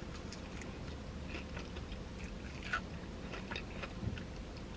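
Faint mouth sounds of a person biting into food and chewing it, with scattered small wet clicks over a steady low hum.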